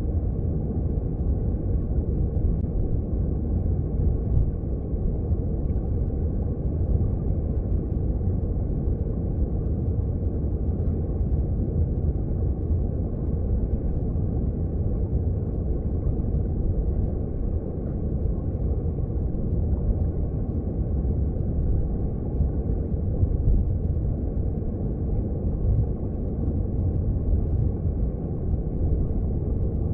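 Underwater sound of a mountain stream: a steady, muffled, low rumbling wash of flowing water, with faint ticks scattered through it.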